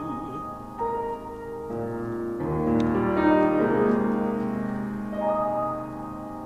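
Solo piano interlude between verses of a carol: soft single notes and then fuller chords, swelling to the loudest chord a few seconds in and easing off again. A singer's held note with vibrato fades out right at the start.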